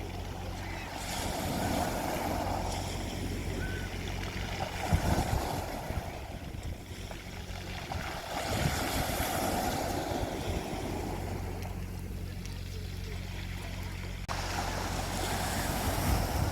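Sea waves washing onto a beach, swelling and ebbing in surges every few seconds, over a steady low hum.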